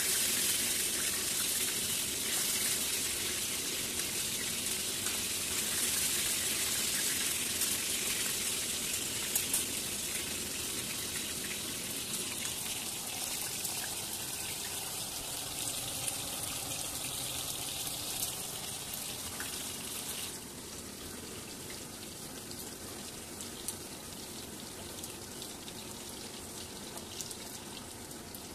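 Chicken pieces frying in oil in a pan: a steady sizzling hiss that drops in level about twenty seconds in.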